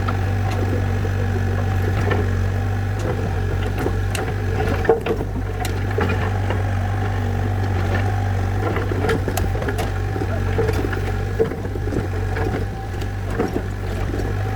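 Heavy machine engine idling steadily, with scattered short sharp knocks over it.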